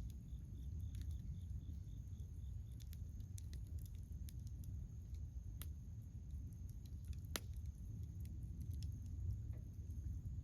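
Bonfire burning: scattered sharp crackles and pops of burning wood over a steady low rumble, with one louder pop about seven seconds in.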